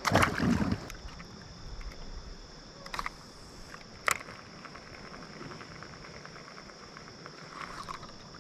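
Insects on the river bank droning steadily at a high pitch, with a brief noisy burst in the first second and two sharp clicks about three and four seconds in.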